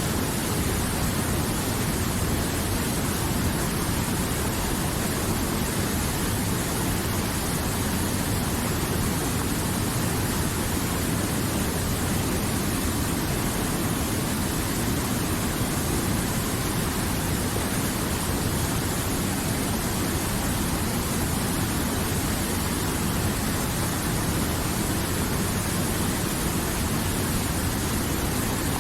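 River water flowing and rushing, a steady, even sound that never changes.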